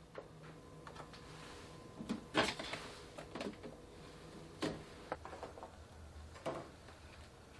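Household handling sounds: a string of knocks and clatters as objects are set down and moved, the loudest a couple of seconds in, over a faint steady hum.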